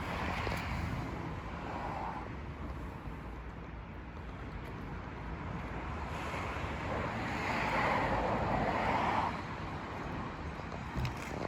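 Outdoor road-traffic noise, with a vehicle passing and swelling louder about seven to nine seconds in.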